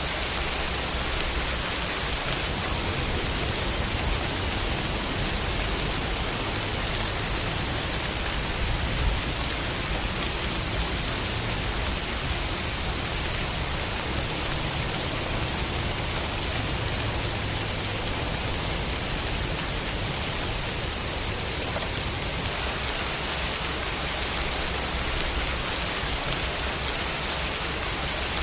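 Steady heavy rain, a dense even hiss with a low rumble beneath it and one slightly louder moment about nine seconds in.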